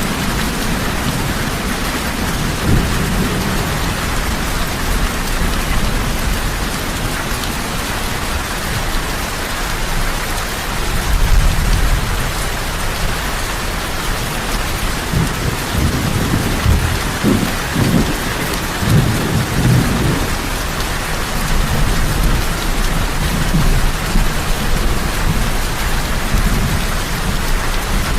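Heavy rain falling steadily, with low thunder rumbling in the middle, once about eleven seconds in and again for several seconds after that.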